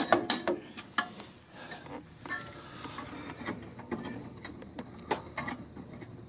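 A hand tool backing out a sheet-metal cover screw on a dryer's rear panel: rapid clicking in the first half second, then a few scattered clicks and light metal knocks.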